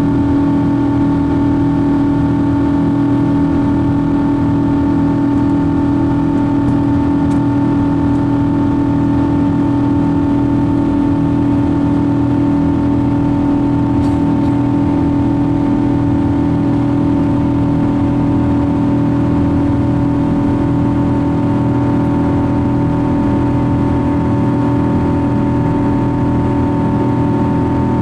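Boeing 777-200 cabin noise: the jet engines and airflow make a steady drone with several held tones that neither rise nor fall.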